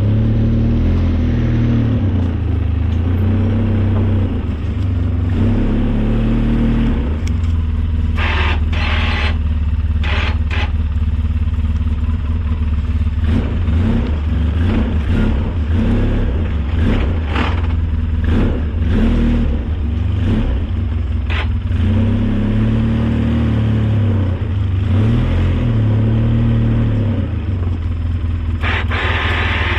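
Engine of a snow-plowing vehicle running under load, its revs rising and falling several times, with repeated short rattles and scrapes in the middle stretch and again near the end.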